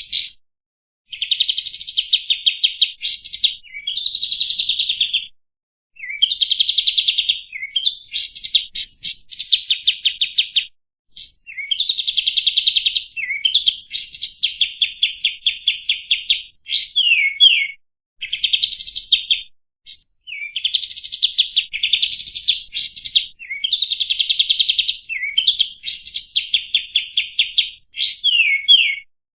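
A kapas tembak songbird singing: phrases of very fast, trilled notes mixed with quick high whistled slurs, each phrase lasting one to three seconds and separated by short pauses.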